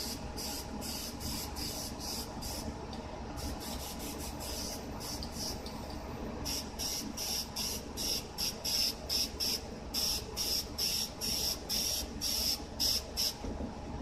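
Aerosol spray paint can sprayed in quick short hissing bursts, about two to three a second. The bursts come in three runs, with brief pauses around three and five seconds in, and are denser in the second half.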